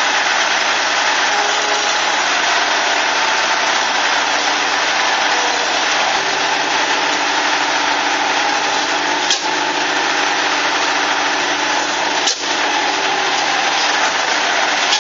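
Duvant 4VN vintage diesel engine running at a steady, even pace.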